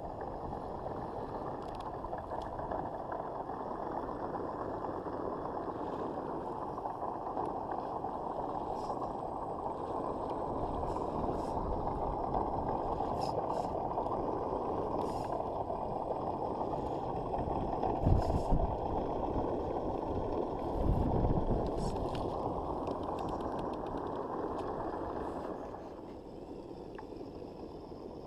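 A 1/6-scale RC Willys Jeep on monster truck tires driving over the ground, with a steady running noise of tires and drivetrain. Two heavier bumps come about 18 and 21 seconds in, and the running noise drops away shortly before the end.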